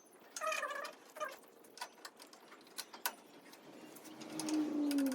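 Scattered sharp metallic clicks and clinks of a spanner working a fitting. A bird gives a short warbling call about half a second in, and another gives a falling call near the end.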